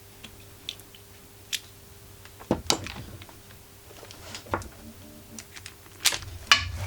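Scattered light metal clicks and knocks of hand tools working at the generator's muffler screws, with louder clunks about two and a half seconds in and near the end, over a faint steady hum that stops near the end.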